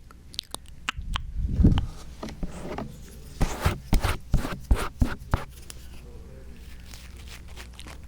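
Close-miked ASMR trigger sounds into a binaural microphone: scattered small clicks, a muffled low thump about a second and a half in, then a quick run of sharp clicks and taps, after which it goes quieter.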